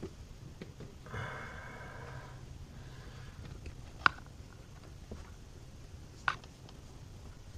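Hard plastic cowl cover being worked into place at the base of a windshield: a squeaky rubbing of plastic for about a second, about a second in, then two sharp clicks, the louder one about four seconds in.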